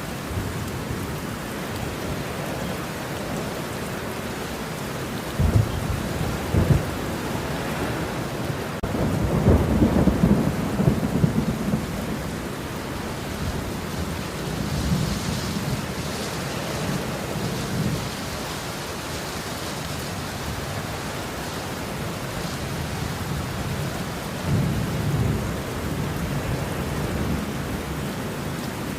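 Steady rain with thunder rumbling over it: two short claps about five and a half seconds in, a longer, louder roll from about nine to twelve seconds, and another rumble near the end.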